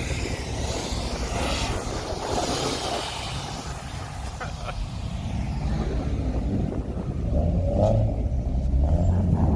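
Car engines running close by, a low rumble that grows louder about seven seconds in.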